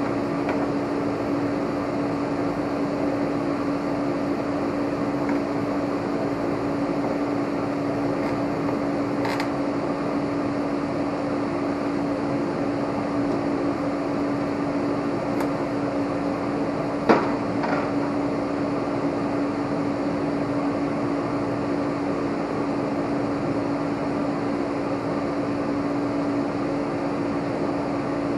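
Steady mechanical hum with an even whooshing noise, like an electric fan or blower, over which a few sharp clicks and knocks of tools on metal sound. The loudest is a single knock about seventeen seconds in.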